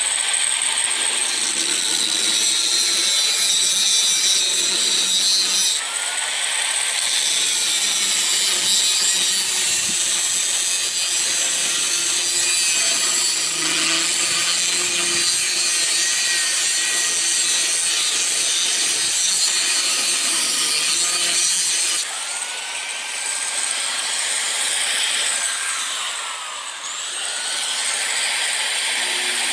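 A power tool working metal, with a steady harsh cutting or grinding noise. The sound shifts abruptly twice, about six seconds in and again about twenty-two seconds in.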